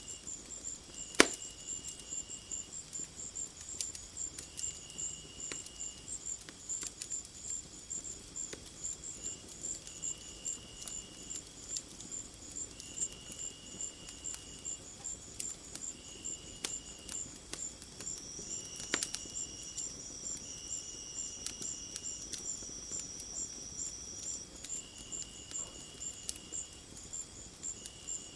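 Crickets or similar insects chirp with a rapid, even pulse, and another insect calls in short buzzes about every two seconds. Sharp crackling pops, like a wood fire, are scattered through it, with a loud one about a second in and another near the middle.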